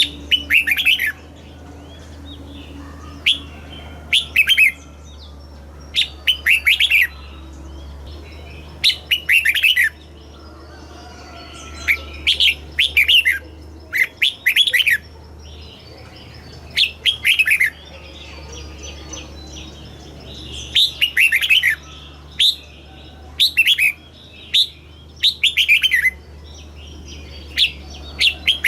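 Red-whiskered bulbul singing: about a dozen short, quick phrases of bright falling notes, one every one to three seconds, over a steady low hum.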